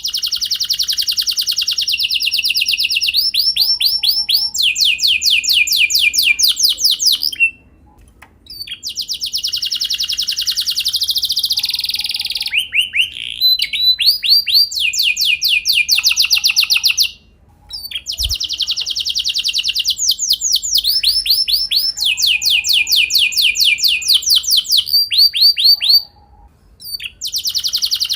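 Domestic canary singing long rolling trills: fast runs of repeated high notes that change pace and pitch every second or two, broken by short pauses three times.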